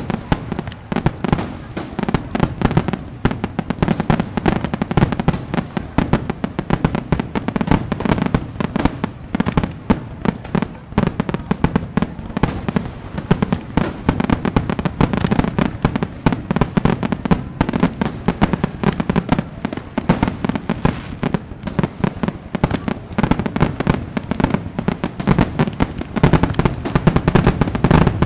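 Fireworks going off in rapid succession: a dense, continuous crackle of many pops and bangs with a steady low rumble beneath.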